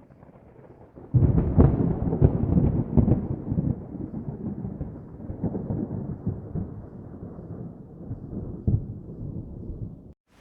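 Thunder: a low rumble that breaks into a loud crackling peal about a second in, then rolls on and slowly fades, with one more sharp crack near the end before it cuts off suddenly.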